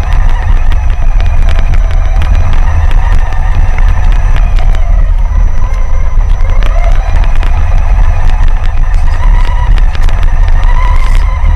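Traxxas Summit RC truck's electric motor whining, its pitch rising and falling with the throttle, over a heavy low rumble and many sharp clicks and knocks.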